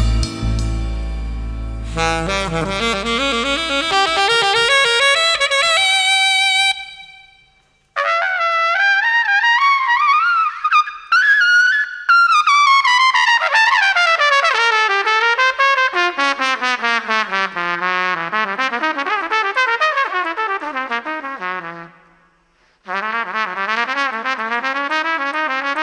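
Solo jazz trumpet playing unaccompanied melodic phrases, after a fuller band sound dies away in the first couple of seconds. The line stops briefly twice, about a third of the way in and near the end.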